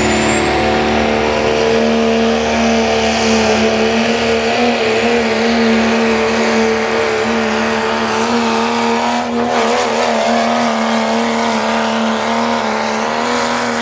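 Dodge Ram diesel pulling truck running flat out at steady high revs while it pulls the sled. A high whistle rises over the engine in the first couple of seconds, and the pitch wavers briefly about two-thirds of the way through.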